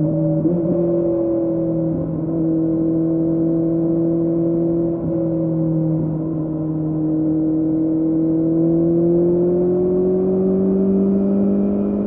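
2006 Kawasaki Z750's inline-four running through a Scorpion carbon aftermarket exhaust with the dB killer removed, cruising at fairly steady revs. Its pitch climbs slowly in the second half as it gently accelerates.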